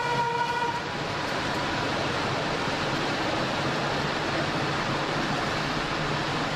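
Flåm Railway train running along the track, heard as a steady rolling and rushing noise of wheels on rails and air. In the first second a short tone sounds over it and then cuts off.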